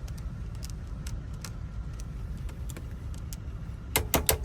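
Metal tool clicking inside a car lock while a broken-off piece is worked out: faint scattered clicks, then a quick run of sharp clicks near the end, over a steady low rumble.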